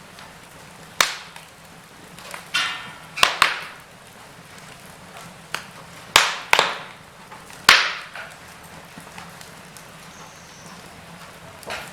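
Wood fire in a fireplace crackling over a faint steady hiss, with irregular sharp pops, the loudest clustered around three seconds and between six and eight seconds in.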